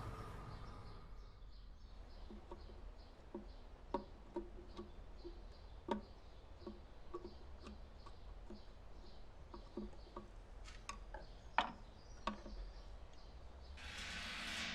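Quiet outdoor ambience: a low steady rumble with faint, evenly repeated chirps and scattered light clicks and knocks.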